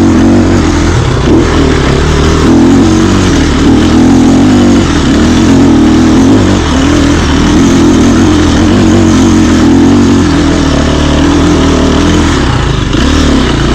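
Off-road dirt bike engine running and revving as it is ridden, its pitch rising and falling.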